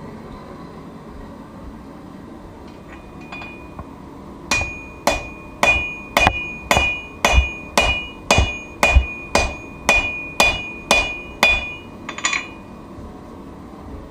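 Hand hammer striking steel on an anvil while forging a knife blade. About fourteen evenly spaced blows come at just under two a second, each with a high metallic ring, followed by a quick double tap.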